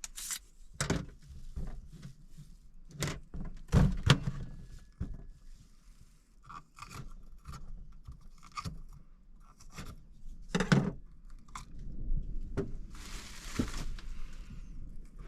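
Irregular knocks, clicks and scrapes of things being handled, the loudest about four and eleven seconds in, with a rasping, ripping noise lasting about a second near the end.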